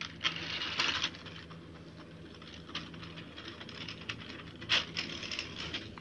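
Battery-powered toy train running on its plastic track: a steady small-motor hum under a rattling clatter of gears and wheels, with sharp clicks several times, the loudest a little before the end.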